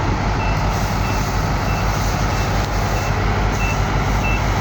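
Heavy farm machinery's diesel engine running steadily under a reverse warning beeper, a short high beep repeating about every two-thirds of a second: the machine is backing up.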